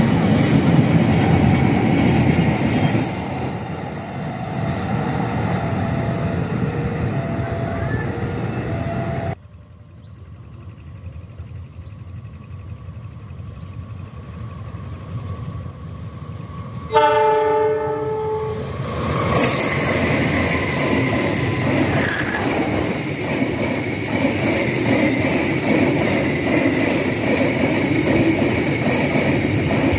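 Fuel tank freight train running past on the rails, with wheel and wagon noise. About halfway through, after an abrupt drop to a quieter rumble, the locomotive's horn sounds once for about two seconds, and then the train's running noise picks up again.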